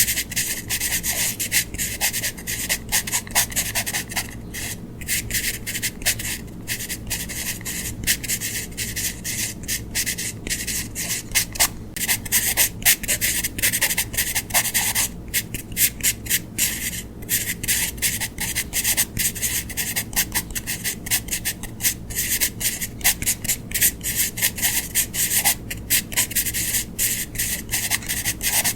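A drawing tool rubbing on paper in quick, scratchy back-and-forth strokes, with a few brief pauses.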